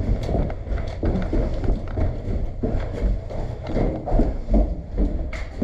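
Footsteps on the ground: irregular, quick steps of a person on the move.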